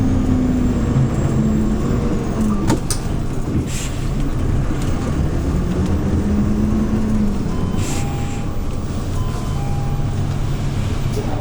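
Hyundai New Super Aero City CNG city bus engine running under way, heard from inside the cabin, its pitch rising and falling as the bus accelerates and eases off.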